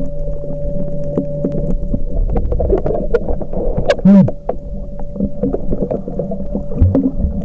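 Muffled sound of a snorkeling camcorder at sea: low water rumble with a steady hum and scattered small clicks. About four seconds in comes a brief loud burst with a quickly falling pitch.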